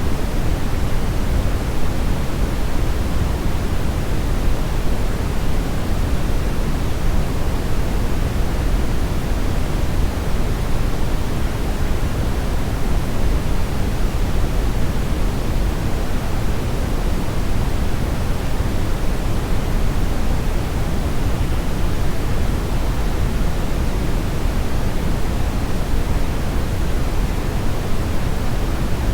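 Steady brown-ish noise: an even, deep rushing hiss weighted toward the low end, unchanging throughout.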